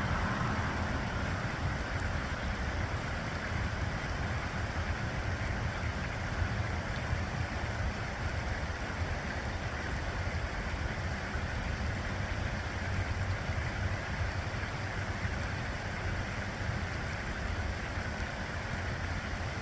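Steady outdoor lakeside noise: wind rumbling on the microphone over an even hiss that may be water or distant traffic, with no calls standing out.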